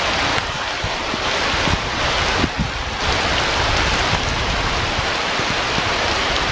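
Wind buffeting the outdoor webcam's microphone: a loud, gusting rush of noise with low rumbling underneath.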